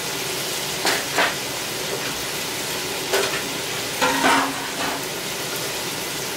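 Breaded green tomato slices and fish frying in hot oil: a steady sizzle, with a few brief louder crackles about one, three and four seconds in.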